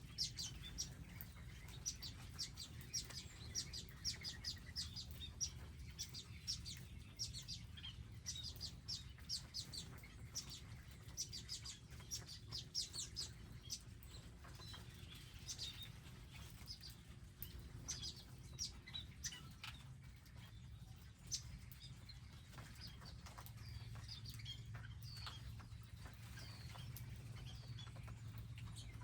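Garden birds chirping, many short high chirps in quick succession, with a low steady hum underneath that grows a little louder about three quarters of the way in.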